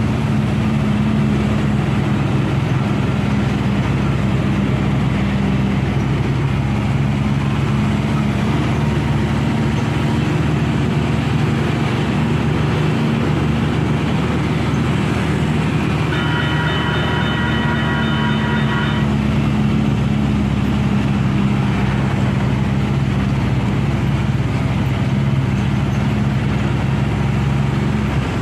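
Heavy vehicle engine running steadily. About sixteen seconds in, a multi-tone horn sounds for about three seconds.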